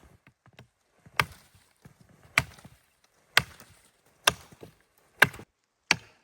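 Wood being chopped with an axe: six sharp blows about a second apart, the last two a little closer together.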